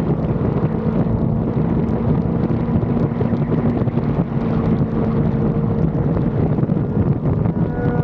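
Sport motorcycle engine running steadily while riding, heavily mixed with wind buffeting the action-camera microphone.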